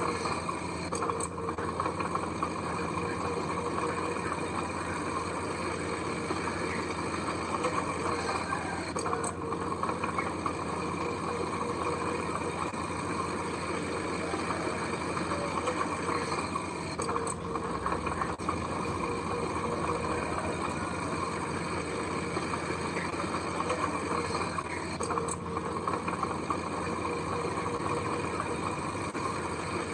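Diesel engine of heavy earthmoving machinery running steadily, a constant drone.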